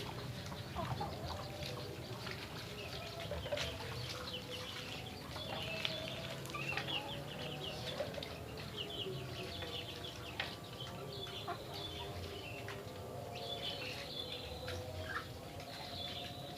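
Domestic chickens clucking, with many short high bird chirps throughout.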